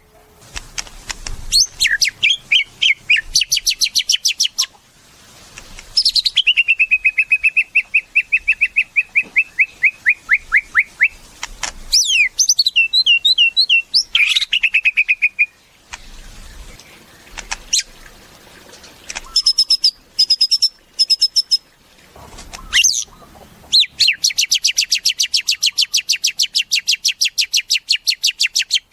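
White-rumped shama (murai batu) singing loudly in varied phrases: runs of fast repeated notes and trills broken by slurred whistles, ending in a long rapid trill.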